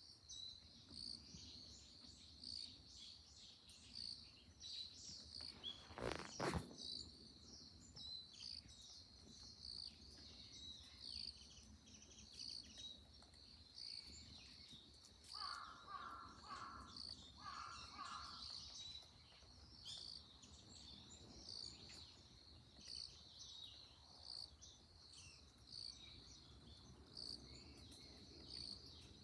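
Faint forest ambience: a continuous high-pitched chorus of insects and small birds, with a sharp knock about six seconds in. Around the middle, two short runs of repeated lower-pitched bird calls.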